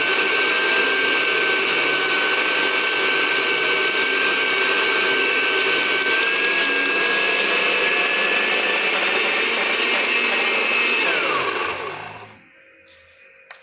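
Electric blender running steadily as it grinds bird food, its motor whining at a fixed pitch. About eleven seconds in it is switched off, and the whine falls as the motor spins down to a stop.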